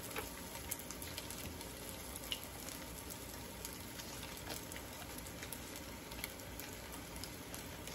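Chicken longganisa sausage frying in a little oil in a nonstick pan: a soft, steady sizzle with scattered small pops and crackles.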